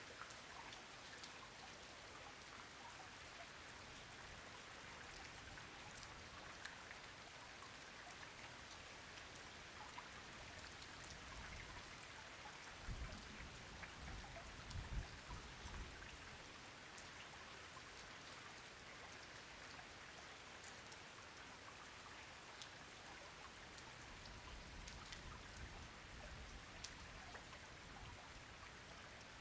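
Steady rain falling, with individual drops ticking sharply over a soft continuous hiss. A few low thumps come in the middle.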